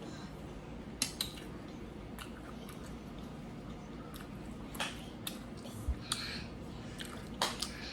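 Eating at close range: chewing, with a few scattered light clicks of cutlery against a plate or dish.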